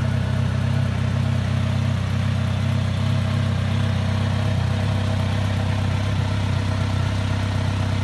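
Kawasaki Z900RS's 948 cc inline-four engine idling steadily.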